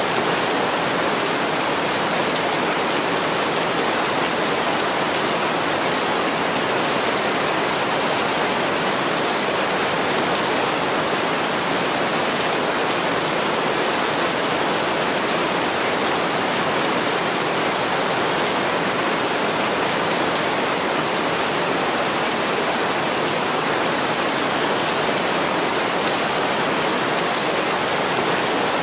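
Heavy rain pouring steadily on a window, an even, unbroken hiss.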